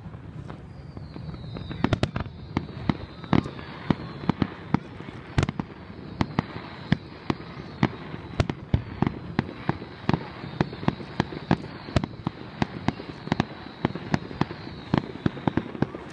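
Fireworks display: aerial shells bursting in quick succession, several sharp bangs a second, with a faint high-pitched whistle running beneath most of it.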